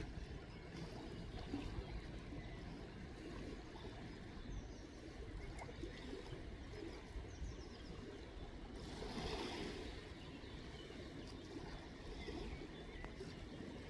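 River water running in a steady low rush, with a low rumble underneath and a brief louder rush of noise about nine seconds in.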